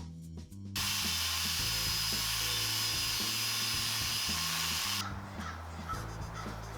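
A high-speed power tool runs steadily with a high whine for about four seconds, then stops, over background music.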